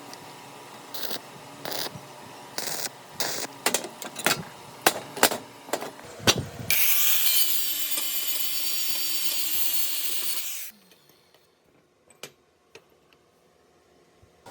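A run of clicks and knocks from hand work on a part, then a power tool runs for about four seconds and stops suddenly, followed by near silence with a few faint ticks.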